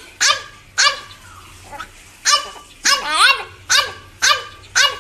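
A dog barking repeatedly: about eight short, high-pitched barks with uneven gaps, one of them about three seconds in drawn out longer.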